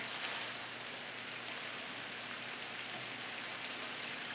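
Chicken korma sizzling in the pan: a steady crackling hiss.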